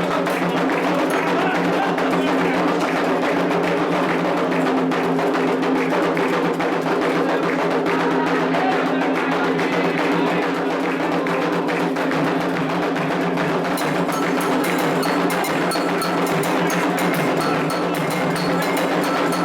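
Candomblé ritual music: atabaque drums and other percussion playing continuously without a break.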